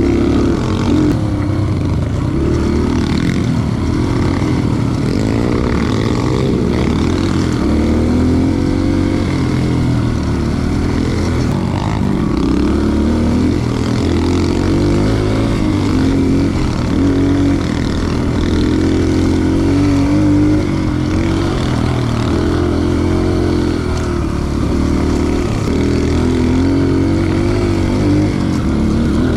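Dirt bike engine running under throttle while riding, its pitch rising and falling over and over.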